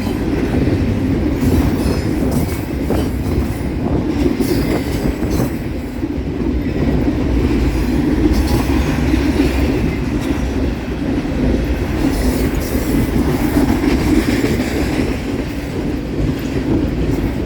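Long container freight train rolling past close by: a continuous, loud noise of steel wheels on rail from the passing cars.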